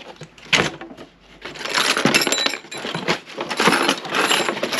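Loose metal door hardware (door knobs and lock parts) clattering and clinking as it is rummaged through in a box. There is a single sharp knock about half a second in, then dense clattering from about a second and a half on.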